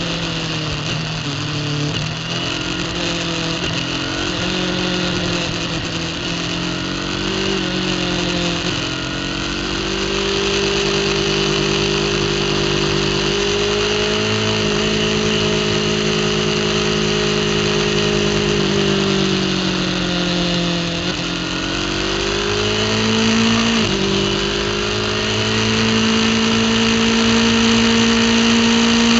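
Racing superbike engine heard from an on-board camera, running hard at high revs. Its pitch drops and climbs several times with gear changes, with a sudden jump in pitch about three-quarters of the way through, over a steady hiss of wind rushing past the bike.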